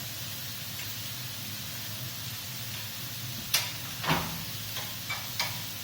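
Chicken fillets sizzling steadily on a hot grill, with a few sharp clacks past the middle as the pieces are moved around on the grill.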